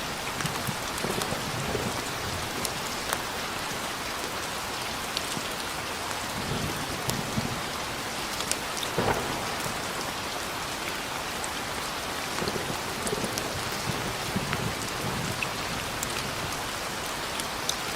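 Steady heavy rain with scattered drops, and low rumbles of thunder now and then.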